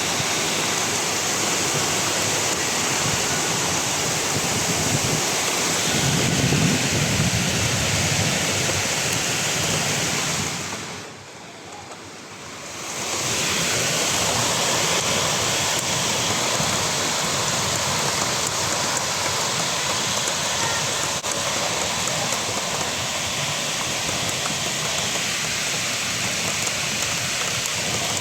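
Heavy rain pouring down in a thunderstorm, a steady loud hiss. A low rumble swells about six seconds in, and the sound drops away for about two seconds near the middle before returning.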